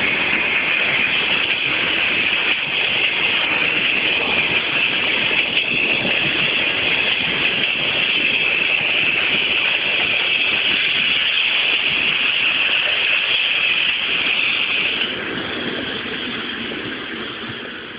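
ER2R electric multiple-unit train running on the track: a steady, loud rolling noise that drops about fifteen seconds in and then fades away.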